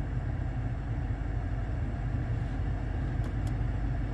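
A BMW's engine idling, a steady low hum heard from inside the cabin. A couple of faint clicks come about three seconds in.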